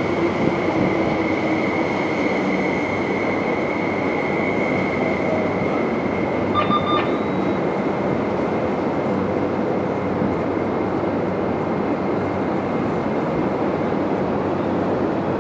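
MTR East Rail line electric train running into the platform and slowing to a stop: a steady rumble of wheels on rail, with a whine that falls in pitch over the first few seconds and a high tone that fades out about halfway through. A short beep sounds about seven seconds in.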